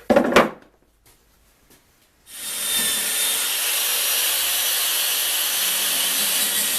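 A couple of sharp knocks at the very start, then about two seconds in a power drill starts and runs steadily, boring into plywood.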